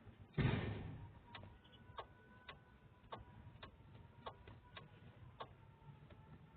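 A dull thud about half a second in, then faint regular ticking, about two ticks a second.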